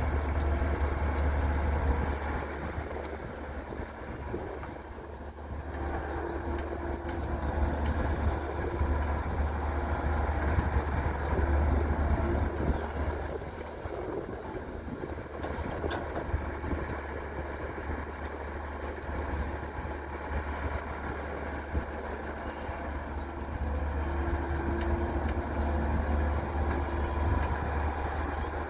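Diesel engine of a Daewoo Solar 170W3 wheeled excavator running with a deep steady rumble, its loudness swelling and easing several times as the machine works under hydraulic load.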